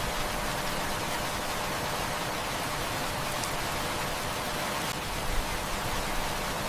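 Heavy rain falling steadily, an even hiss of many drops, with a few faint crackles from a wood fire.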